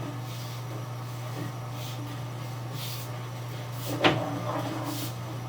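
Sewer inspection camera rig pushed through a drain line: a steady electrical hum with faint swishes about once a second, and one sharp knock about four seconds in, as of the camera head striking the pipe.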